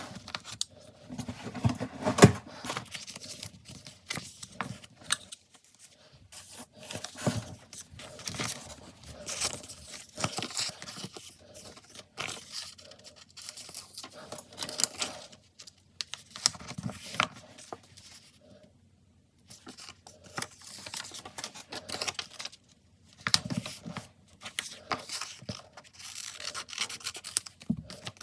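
Stickers and paper being handled for diary decorating: stickers peeled from their sheets and rubbed down onto the page. The sound is irregular rustling and scraping, with a few short pauses.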